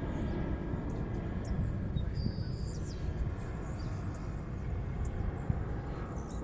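Distant low rumble of an Airbus A320neo's Pratt & Whitney PW1100G geared turbofan engines as the airliner climbs away after takeoff, with birds chirping in short high notes over it.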